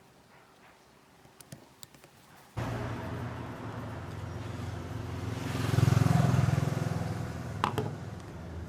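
A few light clicks, then about two and a half seconds in a workshop power tool's electric motor starts abruptly and runs steadily. It swells louder with a hiss, as if working on a part, and then eases off.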